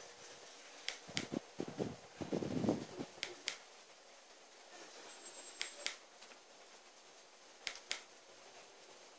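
Wood fire crackling in a fireplace: sharp pops, often two close together, every second or two over a faint hiss.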